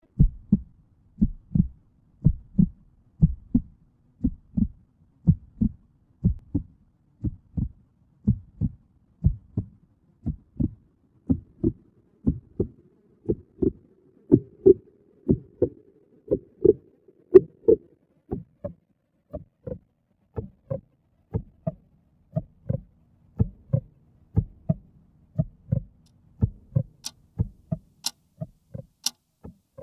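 A heartbeat beating in a steady lub-dub, two low thumps about once a second. A faint hum rises under it in the middle, and near the end a quartz clock ticking about once a second joins in.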